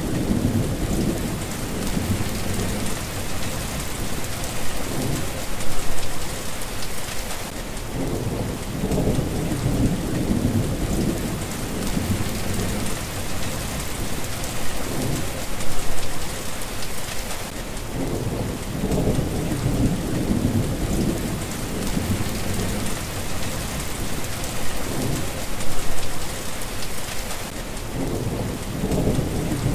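Steady rain falling, with low rolling thunder that swells and fades about every ten seconds.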